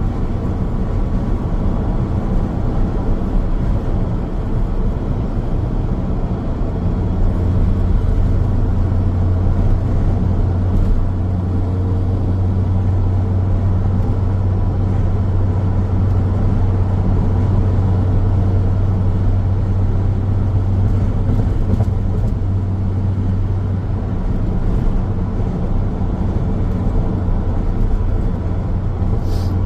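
Car travelling along a road: a steady low rumble of tyres and engine. A deep hum swells about a quarter of the way in and eases off again a little past two-thirds of the way through, and there is a brief click near the end.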